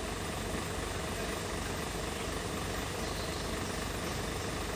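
Heavy truck engine running steadily at idle, with a low, even throb.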